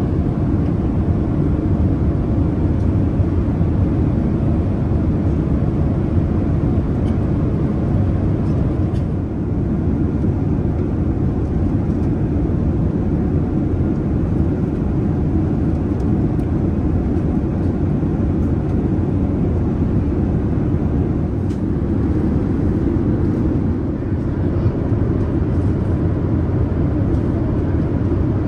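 Steady low rumble of a Boeing 787-10 airliner heard from inside the passenger cabin: engine and airflow noise, with a few faint clicks.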